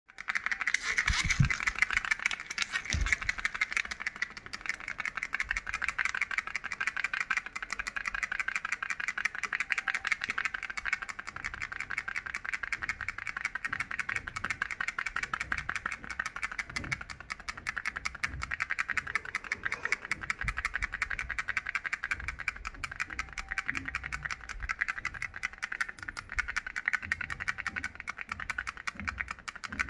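Mini hand fan rattling: a fast, steady clatter of small clicks, with a few low thumps.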